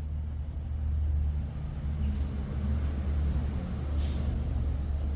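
A low, steady rumble, like a motor or engine running.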